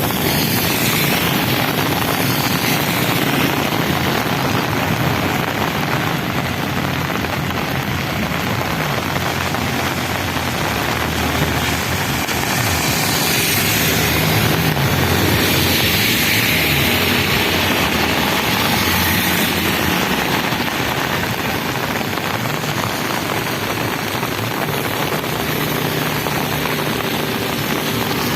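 Continuous road traffic: engines and tyres of passing vehicles, with a louder pass about halfway through.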